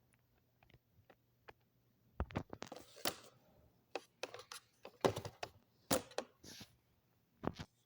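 Irregular clicks, knocks and short rustles of objects being handled, loudest around two to three seconds in and again around five to six seconds in, over a faint low hum.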